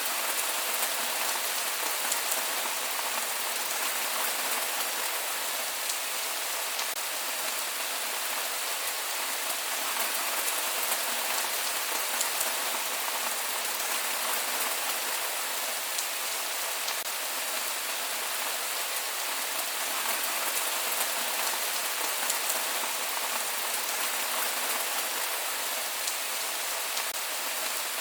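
Steady rain falling on surfaces, an even hiss with scattered fine drop ticks and no thunder.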